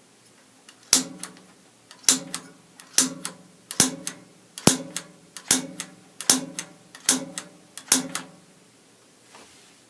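Piezo igniter striker on a gas water heater's control being pressed nine times in a row, about once a second: each press gives a sharp snap with a lighter click on release. The pilot does not light from these sparks.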